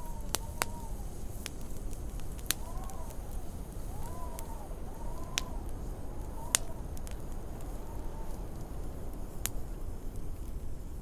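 Wood fire crackling, with irregular sharp pops (the loudest about six and a half seconds in), over a low rumble of storm wind. Short whistles of wind rise and fall in pitch again and again.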